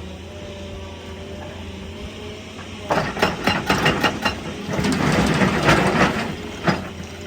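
Excavator working rock: the diesel engine runs steadily. About three seconds in comes a quick run of sharp metal-on-rock knocks, then a louder stretch of crunching and scraping rock, and one more knock near the end.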